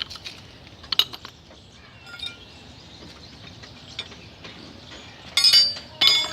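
Steel hand tools clinking against each other: a sharp click about a second in, then a cluster of loud metallic clinks near the end, the last one ringing on.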